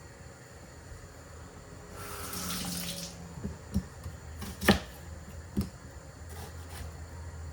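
Kitchen tap running for about a second, then four knocks of things being handled or set down, the third the loudest.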